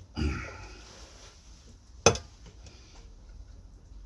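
A single sharp metallic knock about two seconds in as the bench drill's chuck is forced up onto its spindle taper by pulling the quill down hard against a piece of scrap wood: the chuck seating.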